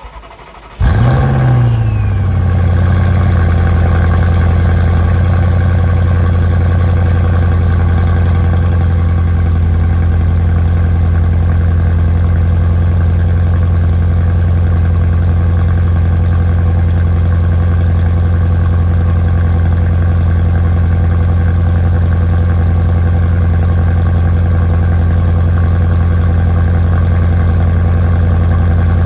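Audi C7 RS6 twin-turbo 4.0 V8 with Scorpion front pipes cold-starting. After a brief crank it catches with a short flare of revs that falls back within a couple of seconds, then settles into a steady, loud fast idle.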